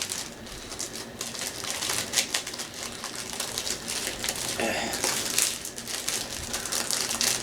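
Plastic wrapper of a snack cake crinkling and crackling as it is handled and pulled open, in a dense, irregular run of crackles.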